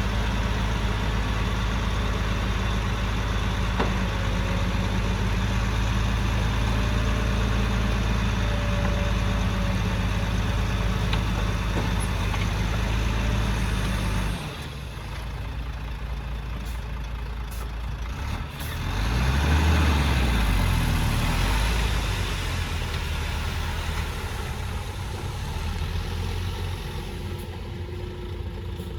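Heavy-equipment diesel engine running steadily under a low drone. About halfway through, the sound drops away abruptly, and a few seconds later an engine revs up and back down before settling to a quieter run.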